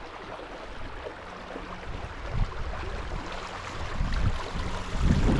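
Creek water running as a steady rushing hiss, with low rumbling buffets on the microphone that swell a few times, strongest near the end.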